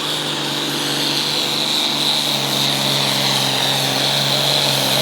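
Naturally aspirated International pulling tractor engine running flat out under load as it drags the sled down the track, with a high steady whine over the engine note, which climbs slightly about two seconds in.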